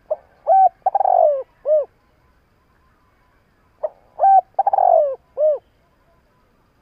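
Spotted dove cooing: two repeats of its song phrase, about four seconds apart, each a short note, a coo, a longer falling note and a final coo.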